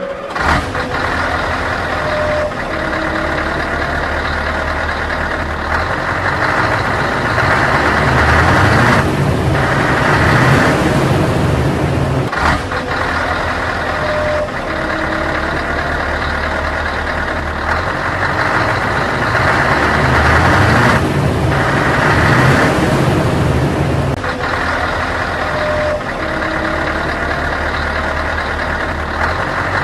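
A heavy vehicle's engine running steadily, its level rising and falling every few seconds.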